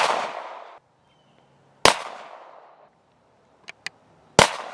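Glock 19 9mm pistol firing three single shots about two seconds apart, each with a fading echo; two faint clicks come just before the third shot.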